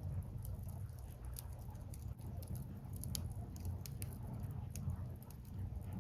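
Wood fire burning, with irregular sharp crackles and pops from the burning logs over a steady low rumble.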